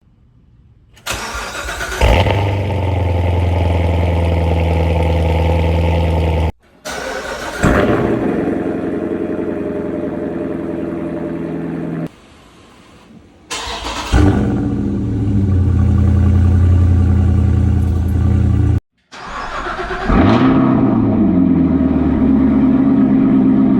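Four short clips of sports-car engines starting one after another, cut together. Each cranks briefly, catches with a loud flare of revs, then settles into a steady idle; in the last clip the revs audibly drop as it settles.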